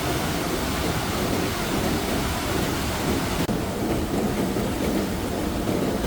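Steady, loud rush of water with no pitch or rhythm in it. About three and a half seconds in there is a brief dip, and after it the sound is duller, with less hiss.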